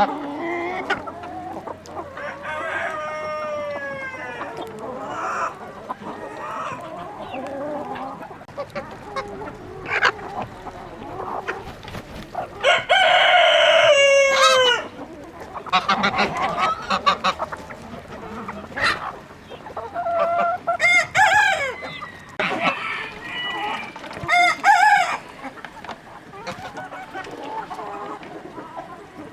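Chickens clucking, with roosters crowing several times. The loudest crow comes about halfway through, long and dropping in pitch at its end.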